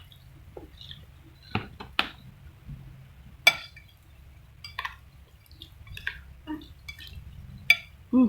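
Eating noodle soup from a bowl: a spoon and chopsticks click and clink against the bowl every second or so, among small wet eating sounds. Near the end comes a short, louder, low sound.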